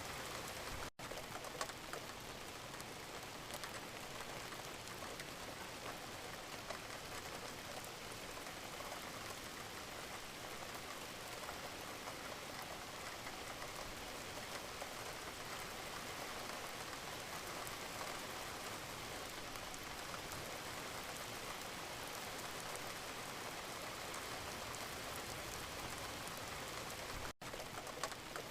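Steady gentle rain: an even hiss with scattered drop ticks. It cuts out for an instant twice, about a second in and near the end.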